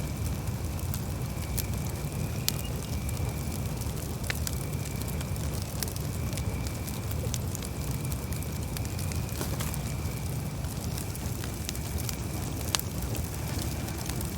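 Campfire burning, with a steady low rush and scattered sharp crackles and pops.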